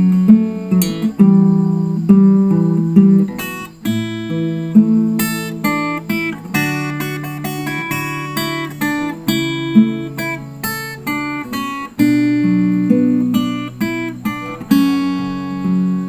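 Acoustic guitar playing an instrumental passage, mixing picked notes with strummed chords that ring and decay one after another.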